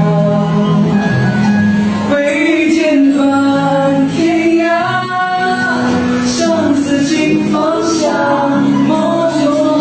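Singing over musical accompaniment, with long held notes.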